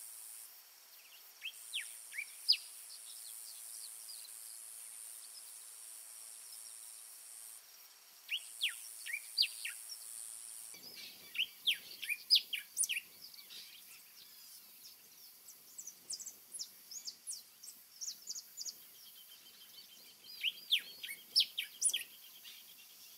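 Wild songbird calling in short clusters of quick, high, sharply sliding chirps, several times over, with a steady high hiss behind them for the first eleven seconds or so.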